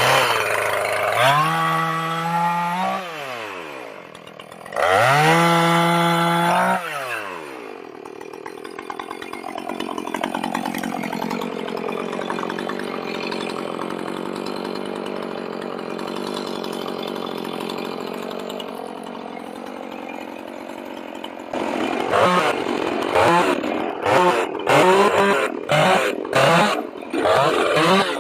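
Chainsaw revving up to full speed and dropping back, twice. It then runs on steadily at a lower, wavering pitch, and near the end revs in short, repeated bursts.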